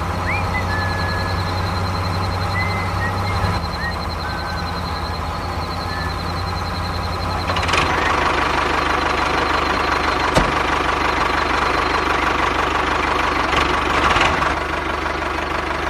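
Mini tractor's motor running steadily, with a few bird chirps in the first few seconds. About halfway through a louder whirring joins in, and a single sharp click follows shortly after.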